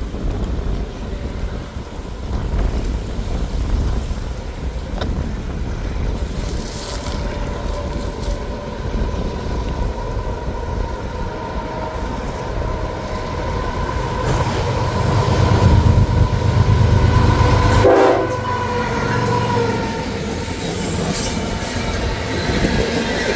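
A southbound loaded freight train led by a GE ES44AC locomotive sounding its multi-tone air horn as it approaches. The diesel rumble builds as the lead locomotives near, then falls away suddenly about three quarters of the way through as they pass, and the horn drops in pitch at the same moment.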